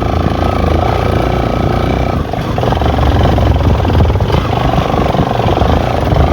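Motorcycle engine running steadily while riding, easing briefly about two seconds in.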